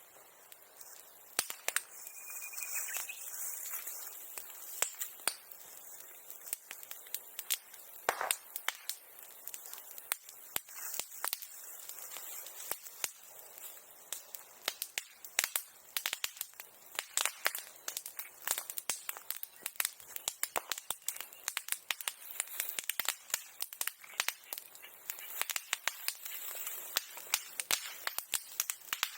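Bonfire burning old silkworm-rearing tools, crackling with many irregular sharp pops.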